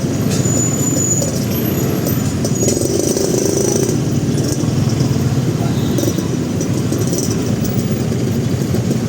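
Motorcycle engine running steadily at low speed in dense city traffic, with a brief high squeal about half a second in.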